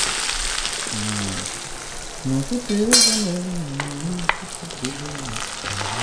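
Onions sautéing in hot oil in a pan, sizzling steadily. A sharp surge of sizzle comes about three seconds in, as chopped tomatoes go into the pan, followed by a few light clicks of a spatula against the pan.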